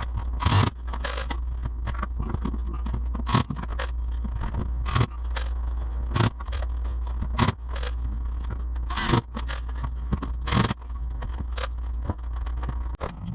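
Repeated short, sharp scrapes, one every one to two seconds, over a steady low hum.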